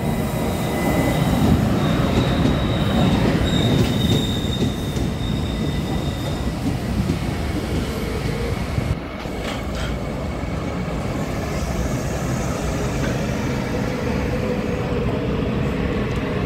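Taiwan Railway EMU500-series electric multiple unit pulling into the station: a loud, steady rumble of wheels and running gear with thin high squeals over it. The sharpest squeal is in the first few seconds, and lower squeal tones carry on as the train slows.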